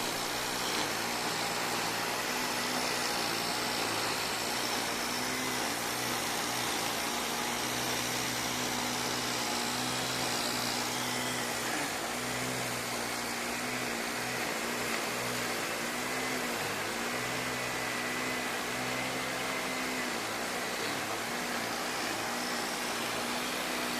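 Heavy typhoon rain hissing steadily, with the small engine of a grass cutter running underneath, its pitch rising and dipping every second or two as the throttle changes.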